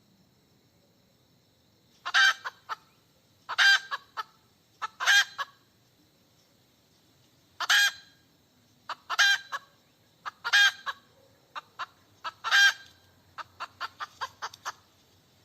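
Domestic hen cackling: starting about two seconds in, a string of loud drawn-out squawks, each trailed by a few short clucks, ending in a quick run of short clucks. The uploader takes this calling for a hen seeking a mate.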